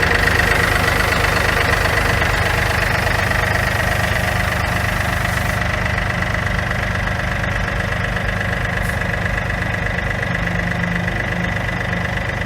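John Deere 4300 compact tractor's three-cylinder diesel engine idling steadily, with a steady high-pitched whine over it.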